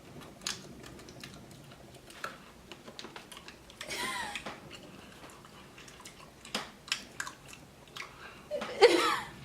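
A person chewing a crunchy snack, with scattered small crunching clicks. A short vocal sound comes about four seconds in, and a louder one near the end.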